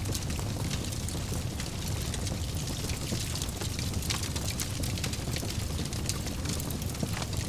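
Wood fire crackling in a fireplace: a steady low rumble of flames with many small, quick pops and snaps.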